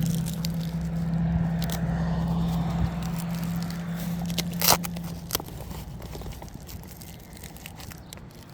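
Bike basket and its Velcro strap being handled and refastened: crackling, rustling and scattered clicks, with one sharp click a little before halfway. A steady low hum runs under it and fades out after about five seconds.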